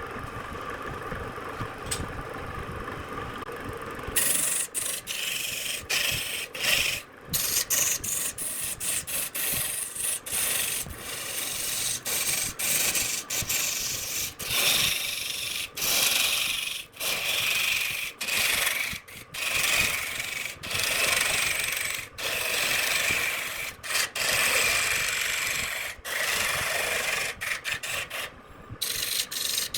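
Wood being worked with an abrasive: a harsh, scratchy rubbing, broken into short stretches by frequent abrupt breaks. It is preceded for about four seconds by a steady machine hum, likely the wood lathe running.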